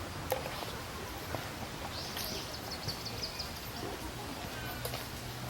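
Common kingfisher calling: a high, shrill call about two seconds in, followed by a quick run of short high chips, over a steady outdoor hiss. A low steady hum comes in near the end.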